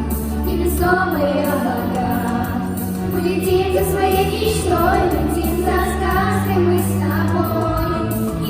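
Pop song with a singing voice over held bass notes and a steady backing track.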